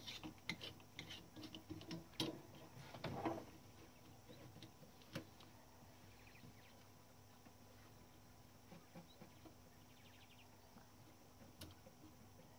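Light clicks and knocks of typewriter parts being set in place on a Klein Adler 2 portable typewriter, several in the first few seconds, then near silence with a single click about five seconds in and another near the end.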